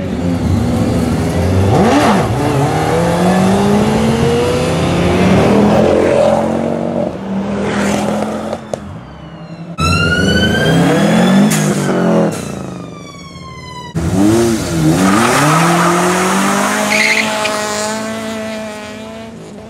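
Three modified cars accelerating away one after another, each engine revving up through the gears with rising and falling pitch: first a Smart car, then a Subaru Impreza's flat-four, then a Ford Focus, which spins its tyres as it pulls away.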